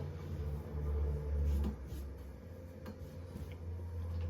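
Low steady hum that swells briefly about a second in, with a few faint rubs and light ticks of handling on top.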